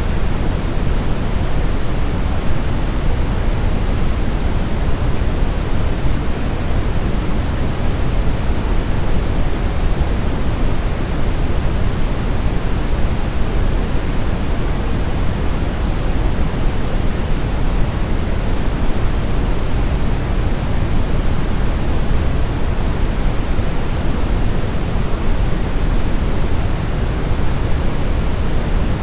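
Brown noise: a steady, even rushing hiss weighted heavily toward the low end, like a deep distant roar, without tones, rhythm or change.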